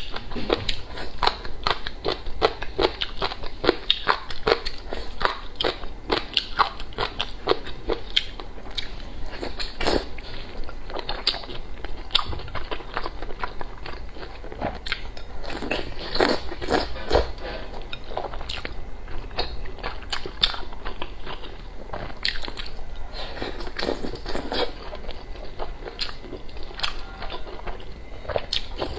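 Chewing of dry, chewy-crunchy sun-dried papaya shreds: a continuous, irregular run of crisp crunches and crackles from biting and chewing.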